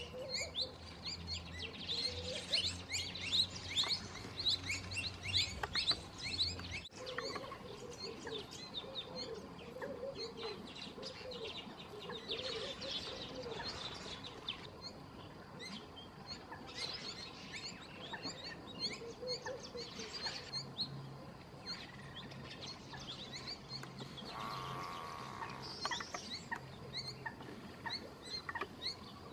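Birds chirping: many short, high calls overlapping, with lower warbling calls among them.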